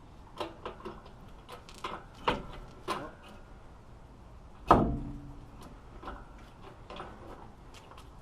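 Irregular metal knocks and clanks as an engine is hoisted out of its bay on an engine hoist, with one loud, briefly ringing clank about halfway through.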